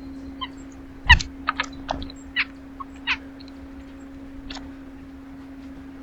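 A bird at the feeder gives a quick run of short, harsh calls, the loudest about a second in, over a steady low hum.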